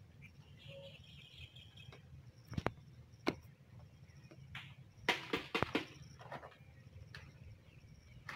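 Birds chirping faintly, with a handful of sharp clicks and knocks scattered through the middle, bunched together about five to six seconds in.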